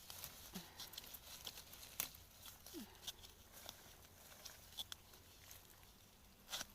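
Faint, scattered crackles and clicks, like dry leaves and twigs being disturbed in forest undergrowth, with one sharper snap about two seconds in.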